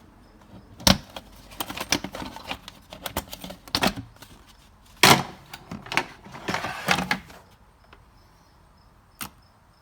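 Plastic engine cover being popped off: two sharp snaps about four seconds apart, with plastic clattering and scraping between them, then a single click near the end.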